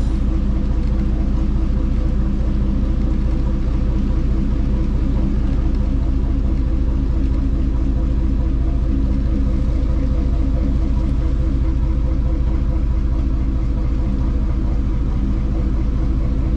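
A Dutch barge's inboard diesel engine running steadily at low revs, an even, unchanging low hum as the boat creeps along slowly.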